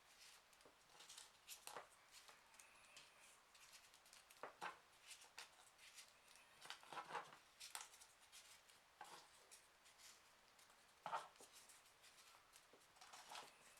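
Faint rustling and light taps of small folded printer-paper origami pieces being handled and slotted together, in scattered irregular bursts.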